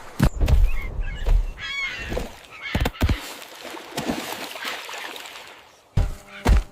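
Honking animal calls over a series of heavy thumps, with the calls clustered in the first couple of seconds.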